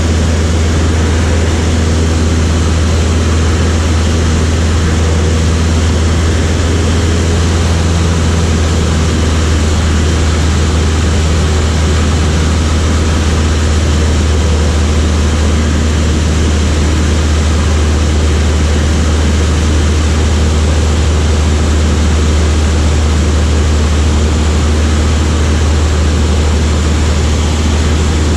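Light propeller aircraft's engine running steadily: a loud, unchanging drone with a strong low hum.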